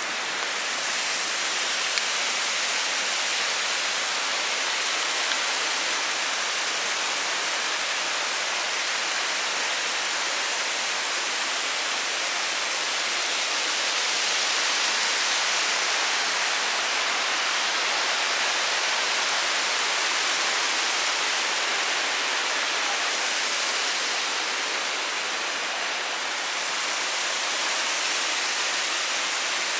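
Steady rushing water, an even hiss with no breaks or rhythm.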